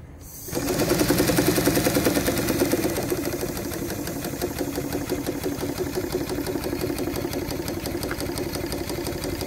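Small homemade steam engine starting up on steam from the boiler and running with a fast, even clatter and chuff. It comes in suddenly about half a second in, is loudest for the first couple of seconds, then settles to a steady run.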